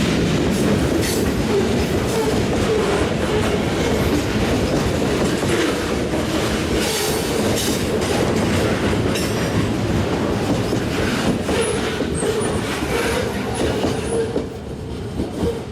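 A train running on the rails: steady wheel-and-rail noise with irregular clicks over rail joints, brief high-pitched wheel squeals about three-quarters of the way through, and the sound easing off near the end.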